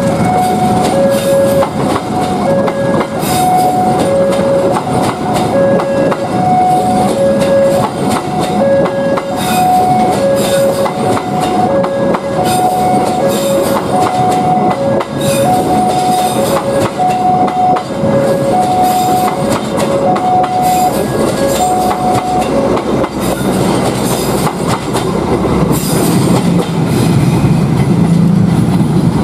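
Passenger train carriages rolling slowly past, with wheels clicking over rail joints. Through most of it a two-tone warning alarm alternates a low and a high tone, and it stops about three-quarters of the way through.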